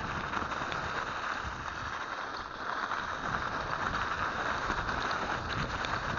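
Mountain bike riding along a snowy trail: a steady rushing noise of tyres and wind on the action camera's microphone, with small clicks and rattles from the bike.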